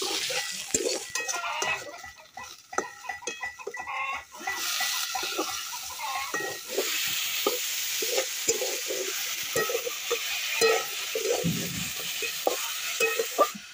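A metal spatula stirs and scrapes around an aluminium wok over a wood fire while oil sizzles. About four and a half seconds in, the sizzle becomes a steady, louder hiss as chopped vegetables are tipped into the hot oil, and the scraping goes on through it.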